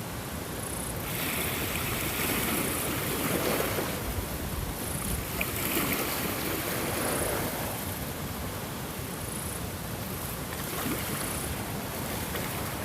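Ocean surf: a steady rush of waves that swells louder for several seconds, then eases off.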